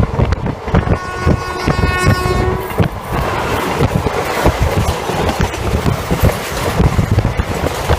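Moving express passenger train heard from on board, its wheels clattering over the rail joints, with a train horn sounding one steady note for about two seconds starting about a second in. After the horn, a louder steady rush of air and running noise takes over.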